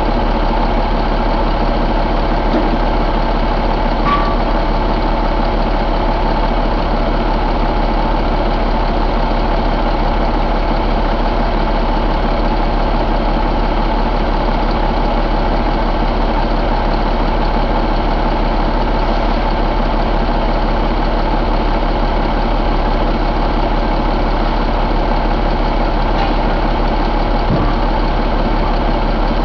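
2016 Cummins ISX15 inline-six diesel engine idling steadily.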